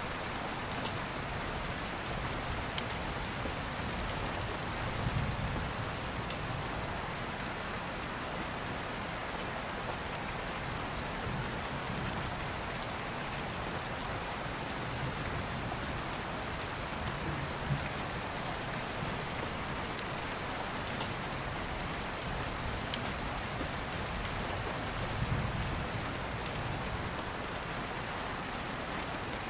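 Steady rain falling, an even hiss with scattered sharp little clicks of fire crackling. Low distant thunder rumbles swell softly about five seconds in and again near the end.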